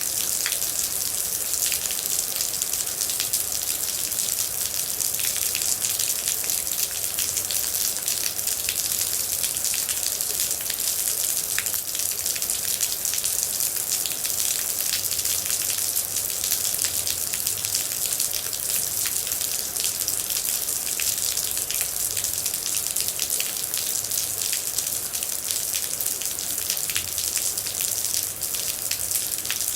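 Steady heavy rain: an even hiss with many separate drops ticking close by throughout.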